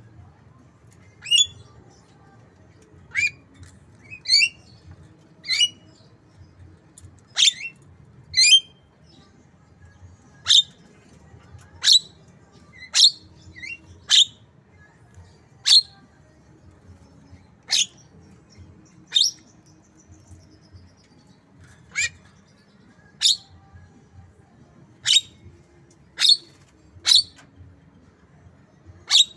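Javan myna giving a long run of short, sharp calls, about one every second or so, in imitation of a white-rumped shama's song.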